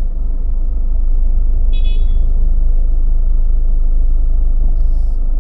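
Car driving through city streets: a steady low rumble of engine and road noise. A brief high squeak comes about two seconds in, and a short hiss near the end.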